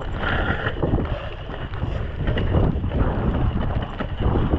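Wind buffeting the microphone over the rumble and rattle of a mountain bike descending a wet, muddy trail, with scattered knocks from the bike over rough ground.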